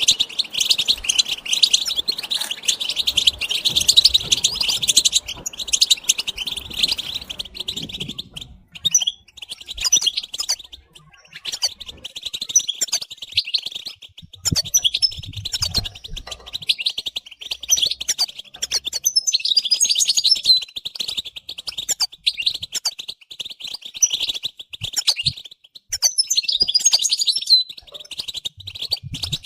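European goldfinches twittering and chattering in a dense, continuous run of rapid notes. Sharper high squeaks stand out about two-thirds of the way through and again near the end.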